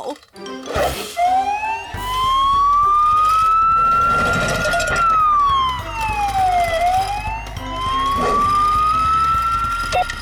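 Wailing siren sound effect, its pitch rising slowly over about four seconds, falling over about two, then rising again.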